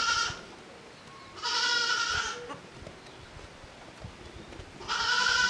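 Goat bleating: high-pitched calls about a second long, with the tail of one at the start, one about a second and a half in, and another starting near the end.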